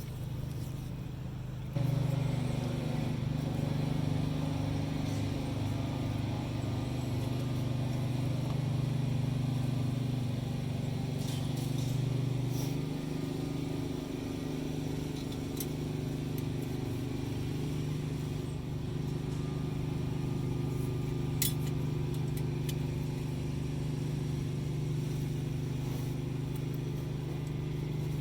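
A steady low mechanical hum that comes on suddenly about two seconds in and holds, with a few light clicks over it.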